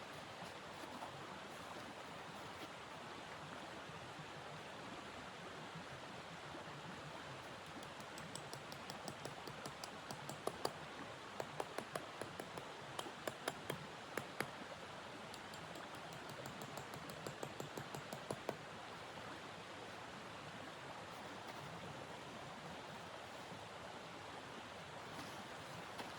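Wood fire crackling, with a run of sharp snaps and pops through the middle, over a steady rushing hiss.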